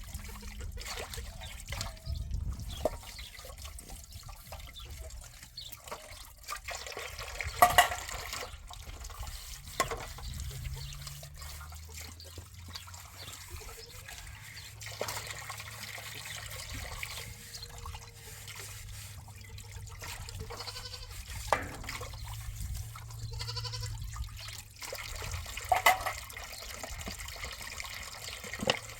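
Water trickling steadily, with a few short animal calls, the loudest about a quarter of the way in and again near the end.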